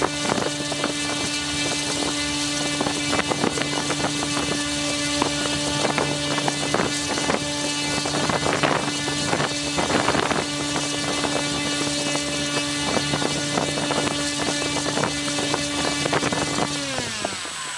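Brushless 1050 KV electric motor spinning a 10x6 propeller at steady full speed: a steady electric whine over a loud rush of air. Near the end the throttle is cut and the whine falls in pitch as the motor winds down.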